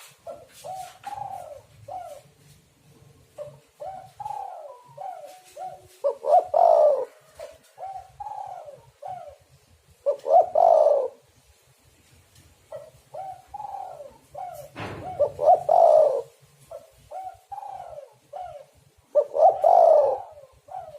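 Spotted dove cooing: phrases of short coos, each ending in a louder, longer coo, repeated about every four to five seconds. There is a brief sharp click partway through.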